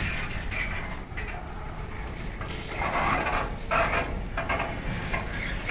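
Container freight train rolling past, its wagons' wheels running on the rails with a steady low rumble. Louder patches of higher-pitched noise, likely wheel and coupling noise from the passing wagons, come about three and four seconds in.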